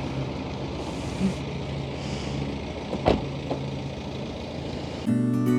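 Motorcycle engine idling steadily, with one sharp click about three seconds in. Acoustic guitar music comes in near the end.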